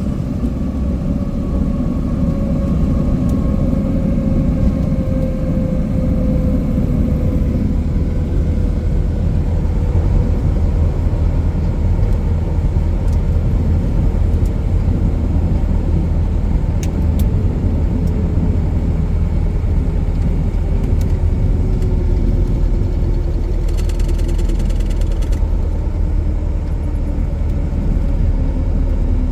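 Cessna 177 Cardinal's piston engine and propeller droning steadily in flight, with a faint tone that slowly falls in pitch.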